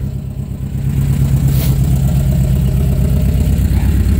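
The air-cooled 1600 flat-four engine of a 1970 VW T2 camper running at idle, a steady, even beat that is quite loud. It grows louder about a second in and holds there.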